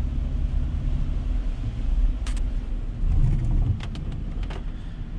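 Car driving: a steady low rumble of engine and road noise, with a few short clicks during it.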